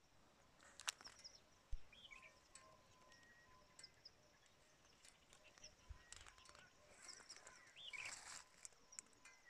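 Faint outdoor ambience of scattered bird chirps and short calls, with a couple of soft knocks in the first two seconds.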